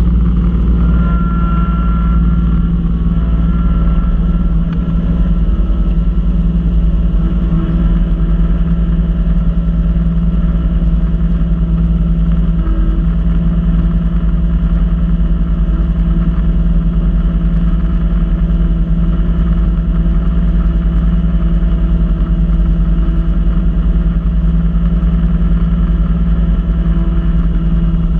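Kubota B2650 tractor's three-cylinder diesel running at a steady speed, driving a front-mount B2782 snow blower, the engine note holding one pitch throughout.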